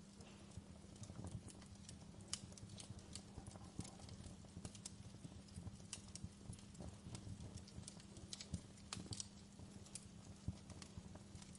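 Burning wood fire crackling: irregular small snaps and a few sharper pops over a low, steady hum.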